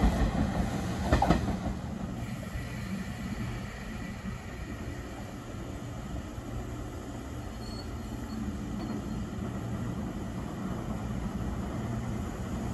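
JR Series 381 electric express train pulling out of a station at low speed: a steady low rumble of motors and wheels, louder at the start, with one sharp clack about a second in.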